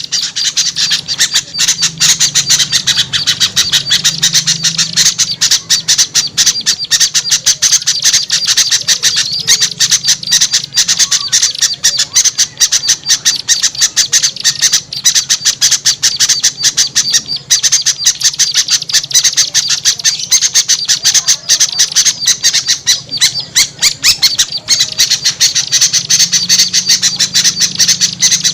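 A noisy, unbroken chorus of small birds squawking and chattering rapidly in high-pitched calls. It is a bird-trapping lure recording (suara pikat): the agitated racket of small birds such as bulbuls, played to draw wary small birds down.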